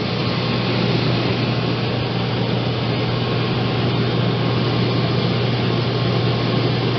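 Rooftop RV air conditioner running in cool mode, its compressor and blower fan going together: a steady rushing noise over a constant low hum.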